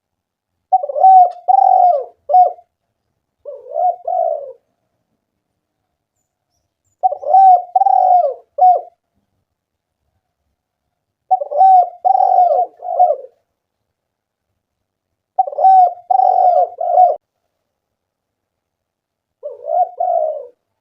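Spotted dove (tekukur) cooing: six phrases of several low, rolling coos, one about every four seconds with silence between.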